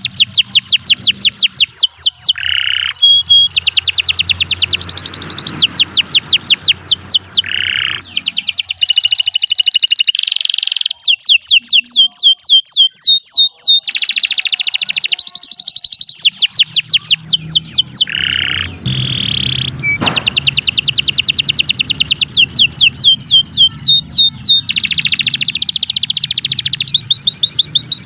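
Domestic canary singing a long, continuous song of rapid trills, each run made of quickly repeated high notes, about ten a second, with short pauses between phrases.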